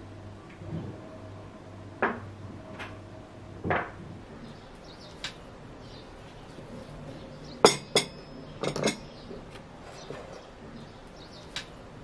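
Dishes and utensils being handled in a kitchen: scattered short clinks and knocks, the loudest a quick pair of sharp clinks about two-thirds of the way through, followed by a few more.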